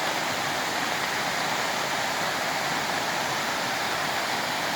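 Small creek waterfall running at a modest winter flow, a steady even rush of falling and splashing water.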